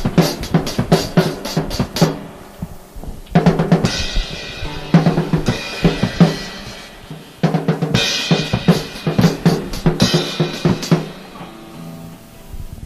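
Live rock drum kit in an improvised jam: fast bass drum and snare hits with crashing cymbals, over sustained tones from the other instruments. The playing comes in surges, with two big cymbal-led accents, and dies away to a ringing tail near the end.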